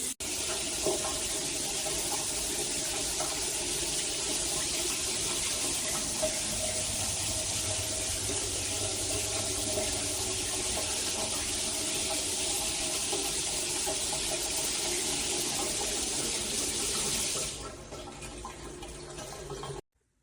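Shower water running in a steady stream. Near the end the hiss thins out, then the sound cuts off suddenly.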